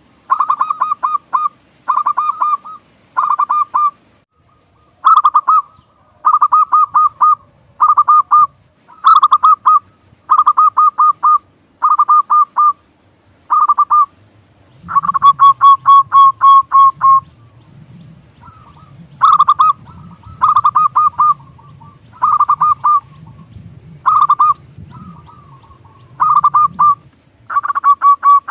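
Zebra doves (perkutut) cooing in short bursts of rapid staccato coos, each about a second long and repeated every second or two. One longer rolling phrase comes near the middle.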